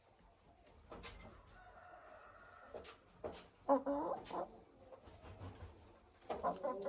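Shamo rooster calling, with one short, loud call a little past midway. A few sharp clicks come before it, and another loud vocal sound begins near the end.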